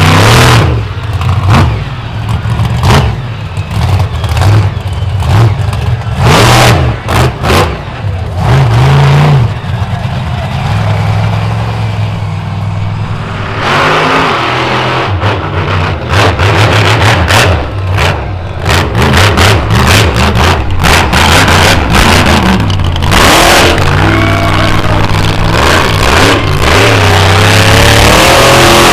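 Monster truck's supercharged V8 engine revving hard on and off, with many sharp bangs and thuds mixed in from the truck working the track.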